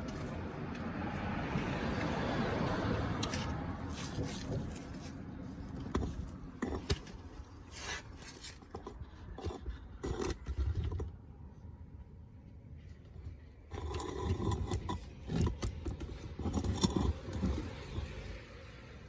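Irregular metallic clinks, knocks and scraping from tools or parts being handled, in two clusters with a quieter gap between them, after a few seconds of steady noise at the start.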